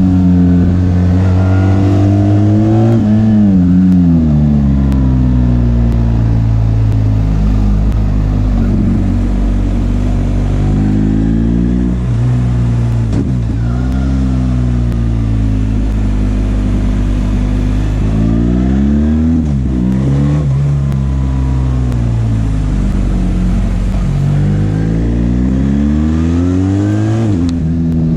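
BMW R 1300 GS's boxer twin engine heard from the saddle, accelerating hard with its pitch climbing and dropping several times as the rider works through the gears and rolls off.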